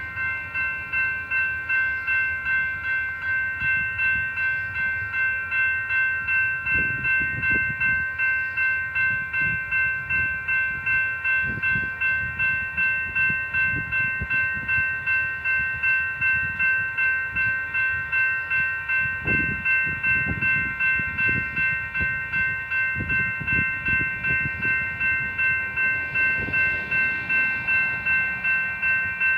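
Railroad grade-crossing bell ringing in an even repeating beat, about one and a half strokes a second, while a freight train rolls by with low rumbling and irregular clanks of its cars from about six seconds in.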